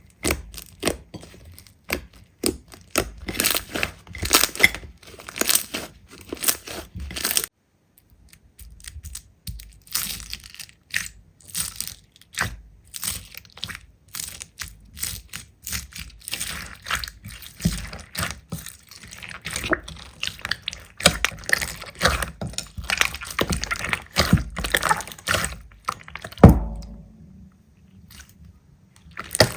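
Slime being pressed and squeezed by hand close to the microphone: dense crackling, popping and squelching clicks. The sound drops out briefly about a quarter of the way in, and a single louder thump comes near the end.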